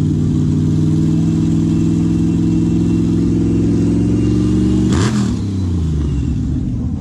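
Twin-supercharged 427 LS7 V8 of a V8 motorcycle running hard at a high, steady pitch. About five seconds in a sharp crack cuts through and the engine note falls away.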